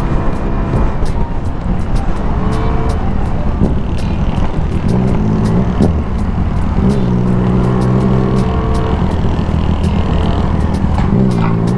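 Vespa S125 scooter engine running on a ride, its pitch rising, holding and falling with the throttle. Background music with a steady beat plays along.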